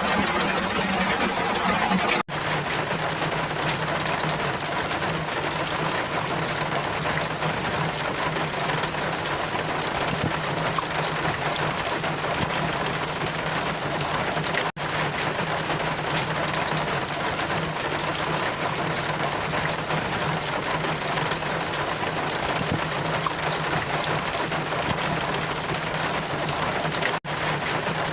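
Steady rain with wind, a constant even hiss with a low hum underneath, broken by brief dropouts about two seconds in, in the middle, and near the end.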